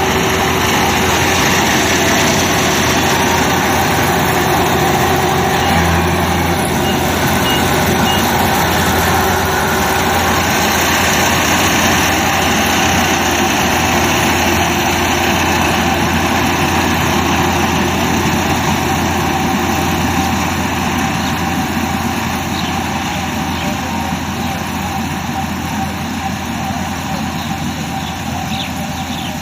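Diesel engine and machinery of a combine harvester running steadily. It grows gradually quieter over roughly the last eight seconds.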